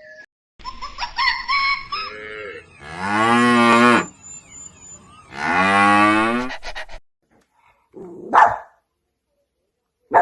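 Large animal calling: a shorter, higher call, then two long, low, drawn-out calls of about a second each, and a brief call near the end.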